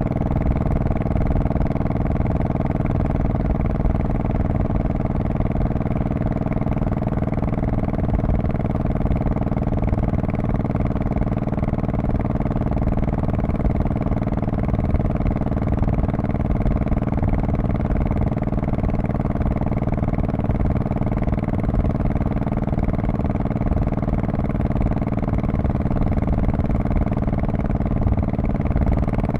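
The 1099 cc V-twin of a 2002 Honda Shadow Spirit VT1100C motorcycle running through its exhaust at a steady, unchanging engine speed.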